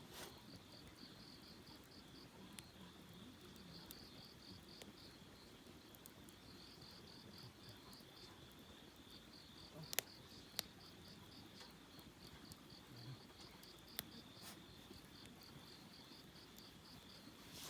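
Crickets chirping in a steady, evenly pulsed trill, faint against the night quiet. A few sharp crackles from the campfire pop through, twice close together about ten seconds in and once more a few seconds later.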